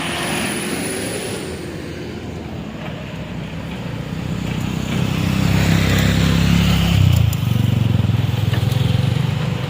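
A motor vehicle's engine running, growing louder from about four seconds in, with a change in its pitch about seven seconds in.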